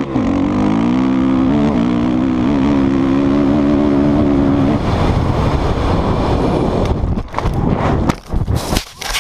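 Dirt bike engine running hard at steady high revs, then turning rough and noisy about five seconds in, with a few sharp knocks near the end.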